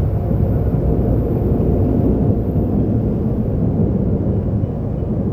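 Seoul subway train running between stations, heard from inside the car: a steady, loud low rumble of wheels on rail and running gear. A faint high whine fades out a little over halfway through.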